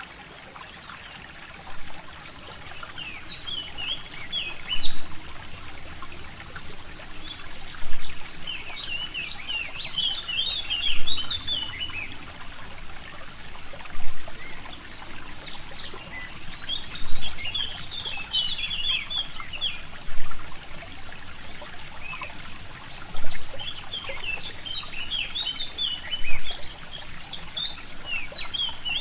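Forest stream trickling steadily while songbirds sing in bouts of rapid, twittering high phrases. The overall sound swells in short louder pulses about every three seconds.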